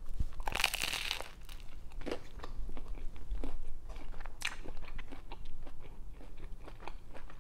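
A bite into a toasted mac and cheese grilled cheese sandwich: the toasted bread crunches loudly about half a second in, followed by close-miked chewing with small crunches and mouth clicks.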